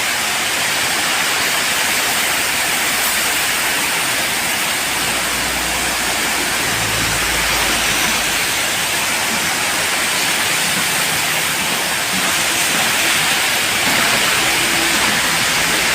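Heavy rain pouring down steadily in a dense, even hiss, with a low rumble for a few seconds in the middle.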